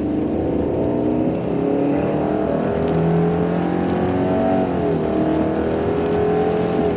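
Car engine pulling under acceleration, its pitch rising steadily, dropping about halfway through as it shifts up, then rising again.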